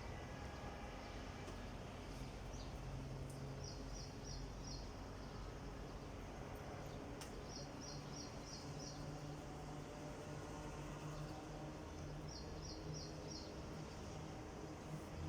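A bird calling in the background: a quick run of four or five high chirps, repeated three times about every four seconds, over a faint low hum.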